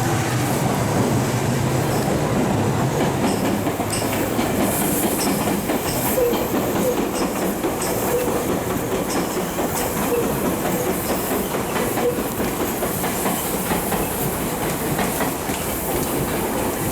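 JR Central 315 series electric train rolling along the platform, a steady rumble with wheels clicking over the rail joints. A low hum fades away during the first few seconds.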